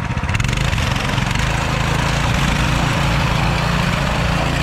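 Small mini bike engine running steadily, getting louder about half a second in.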